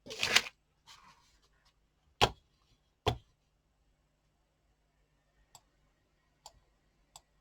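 A short rustle at the start, then two sharp knocks a little under a second apart and a few faint clicks afterwards: small craft items being handled and set down on a table.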